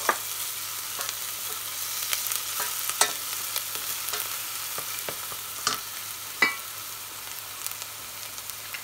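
Onions and garlic sizzling in olive oil in a heavy-bottomed stainless steel saucepan while a spatula stirs them: a steady frying hiss, with a few sharp clicks of utensils against the pan, the loudest about three seconds in and again a little past six seconds.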